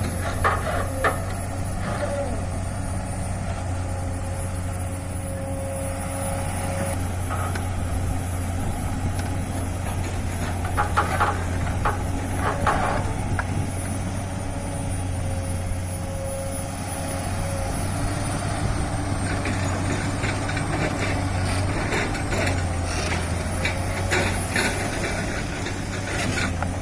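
Heavy diesel machinery running steadily: a Komatsu PC200 hydraulic excavator working as it loads dump trucks. A hydraulic whine comes and goes, and a few short knocks sound, about a second in and twice around the middle.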